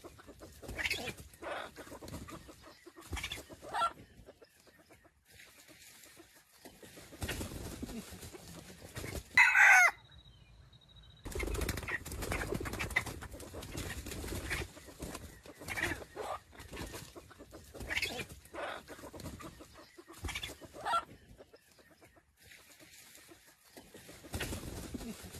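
Chickens clucking in short, repeated calls, with one loud, brief squawk about nine seconds in.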